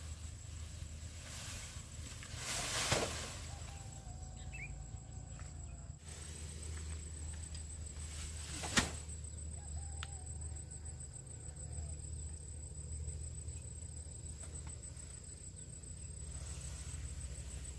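Chickens clucking faintly, with a short rustle about three seconds in and a sharp knock a little before halfway. A thin, steady high whine runs underneath.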